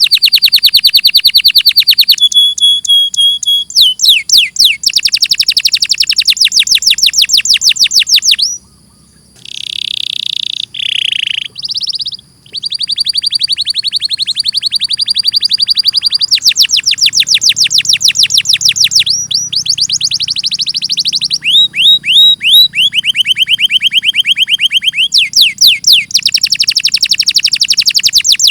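Domestic canary singing a long song of rapid high trills, switching from one trill type to another every few seconds, with a brief break about eight or nine seconds in.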